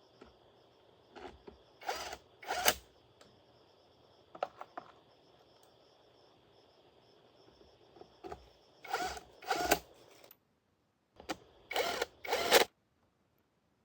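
A power tool run in short bursts of about half a second, in groups of two or three, over a faint steady high whine.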